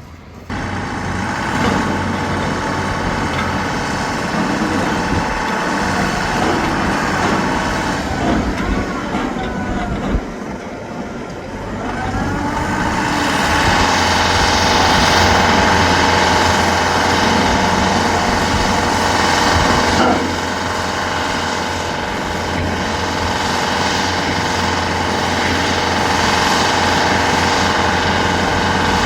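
A heavy vehicle's engine running steadily amid traffic noise, growing louder about thirteen seconds in.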